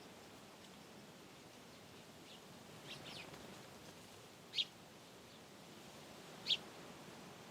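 Short, high bird chirps over faint, steady wind in the trees: a few soft ones a couple of seconds in, then two sharper single calls about four and a half and six and a half seconds in.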